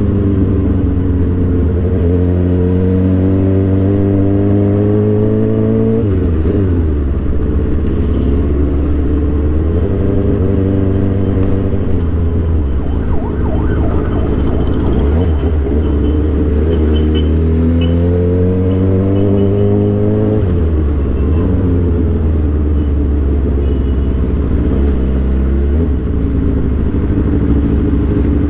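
Suzuki GSX-R 750 inline-four engine pulling hard under acceleration, its revs climbing and then dropping sharply at gear changes about six and twenty seconds in, over a steady low rumble.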